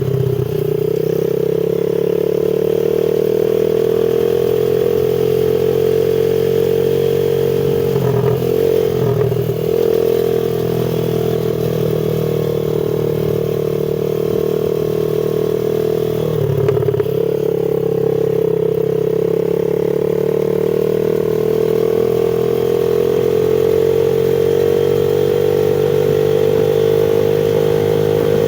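X-Pro 110cc semi-automatic dirt bike engine running under steady throttle. Its pitch dips briefly three times, about 8, 9 and 17 seconds in, and climbs slowly toward the end.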